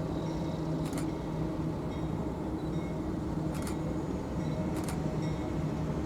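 A train running, a steady low rumble and hum, with three brief sharp metallic clicks about one, three and a half, and five seconds in.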